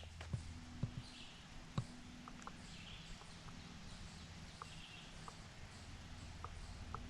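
A bird's faint call repeating about every two seconds, with scattered light clicks and a low steady hum underneath.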